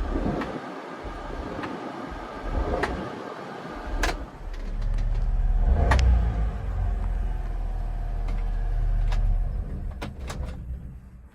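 1996 Honda Acty mini truck being handled and run: several sharp clicks and knocks, with a low steady rumble that sets in about halfway and fades near the end.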